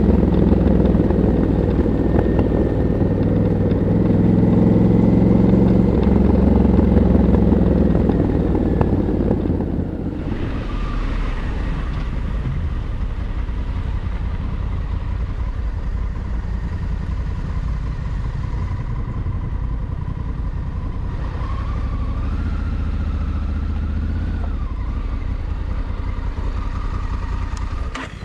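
A stock 2022 Honda Africa Twin 1100's parallel-twin engine running under load on the road. About ten seconds in, it drops to a quieter, lower-revving sound that carries a thin whine, which rises briefly later.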